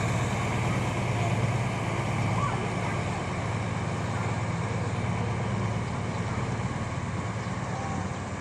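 Excavator engine running steadily, a continuous low drone.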